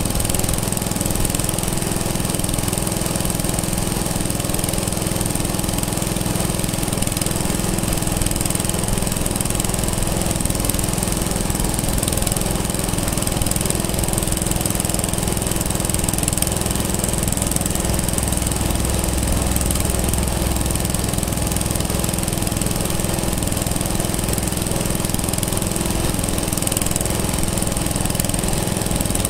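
An engine running steadily with a fast, even beat, holding the same speed throughout.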